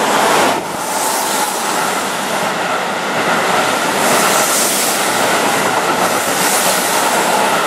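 Keihan 3000 series express train running past close by along a station platform: a loud, steady rush of train noise that swells about four seconds in and again near the end.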